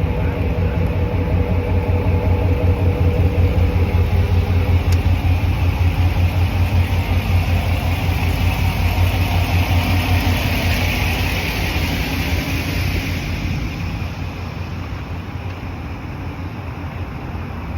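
Steady low vehicle rumble with a hiss that swells in the middle and eases off near the end.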